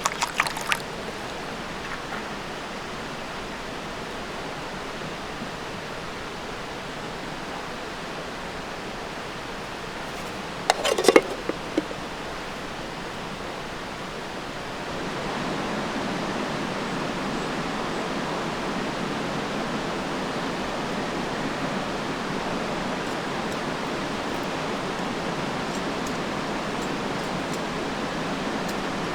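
Steady rush of running water, getting louder about fifteen seconds in and staying at that level. A brief clatter about eleven seconds in.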